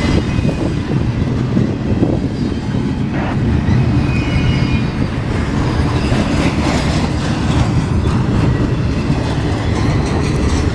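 Train rolling past close by, a steady heavy rumble of wheels on rail with some clickety-clack, and a few short thin high-pitched tones from the wheels now and then.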